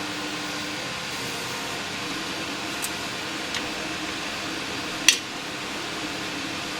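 Steady background hum with a few small clicks and one sharper click about five seconds in, from a screwdriver working the flathead screws out of an antique cash register's side panels.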